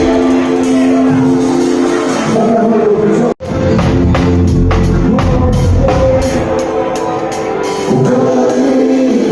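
Reggae band music with a singer and a drum kit. The sound drops out sharply for an instant about three seconds in.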